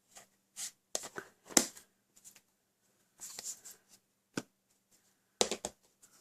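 Hands handling card and paper: short rustles and scrapes, a sharp tap a little after four seconds, and a quick cluster of clicks near the end.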